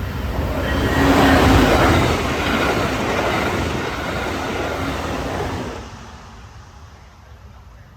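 A train passing at speed. The rushing rail noise swells about a second in, then fades away by about six seconds.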